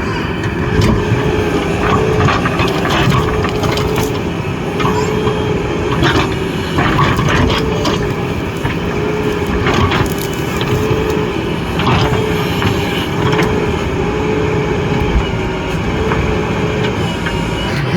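JCB 3DX backhoe loader's diesel engine running steadily under work, its pitch wavering slightly, with irregular sharp cracks and crunches over it, as of the machine working soil.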